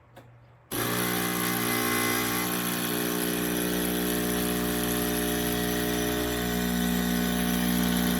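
Espresso machine's pump switching on abruptly just under a second in and running steadily with a loud humming buzz.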